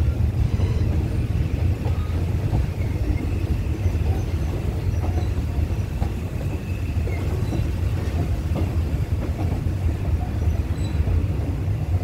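Passenger train carriage rolling slowly, heard from an open window: a steady low rumble of the running gear with scattered light clicks as the wheels cross rail joints and points.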